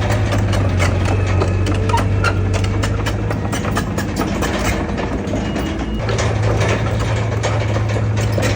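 Heavy diesel engine of earthmoving machinery running steadily, with frequent metallic clicks and clanks over it. The engine note weakens for a couple of seconds mid-way, then comes back stronger about six seconds in.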